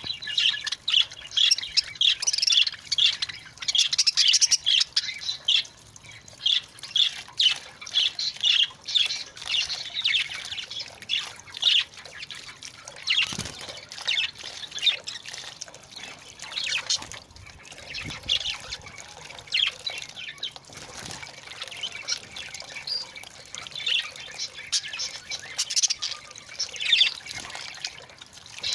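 Budgerigars chattering and warbling continuously in fast, high chirps while bathing, with splashes of water now and then.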